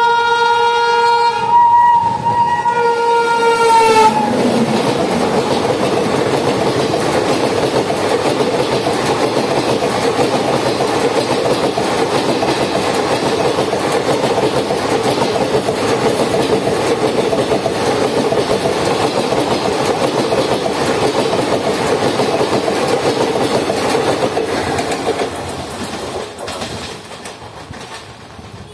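A WAP7 electric locomotive sounds its horn in two blasts with a short break between them, ending about four seconds in. The loco and its ICF coaches then pass at speed in a long steady rush of wheels on rail, which fades away in the last few seconds as the train recedes.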